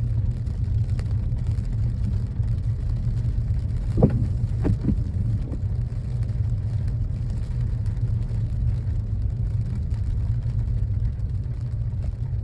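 Car driving, a steady low rumble of engine and road noise, with a sharp thump about four seconds in and two lighter knocks soon after.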